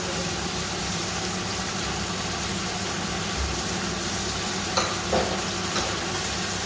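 Onions, tomato and water sizzling and bubbling in a large metal cooking pot, a steady hiss, with a few light knocks about five seconds in.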